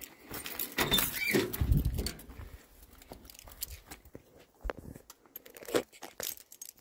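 Irregular clicks and rattles of things being handled, with a dull thump about a second and a half in and a sharp click near the middle.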